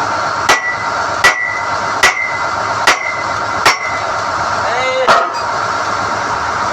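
Five evenly spaced hammer blows on steel, about 0.8 s apart, each ringing with a clear metallic tone. One more knock follows about a second later, all over the steady drone of the drilling rig running.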